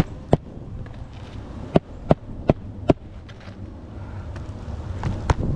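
Sharp knocks of nails being driven into asphalt roof shingles: two near the start, then a quick run of four about half a second apart, and one more near the end. A rustling scuff of material rises just before the end.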